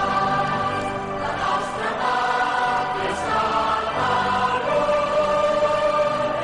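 A choir singing slow, sustained chords, the notes held a second or more before moving.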